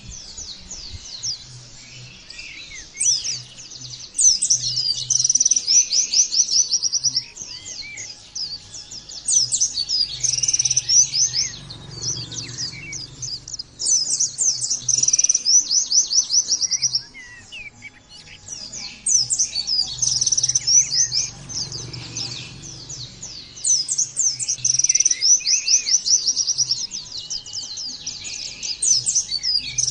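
Pleci (white-eye, Zosterops) song: bouts of fast, high, chattering trills a few seconds long, coming again every five or six seconds, the insistent 'gacor' song that keepers play to set their own birds singing.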